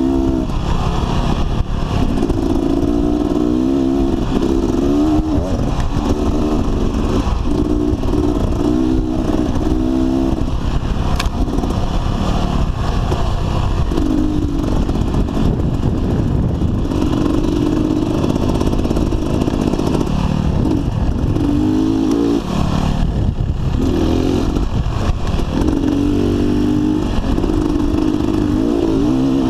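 Dirt bike engine running under way, its pitch rising and falling again and again as the throttle is opened and closed, over a steady low rumble.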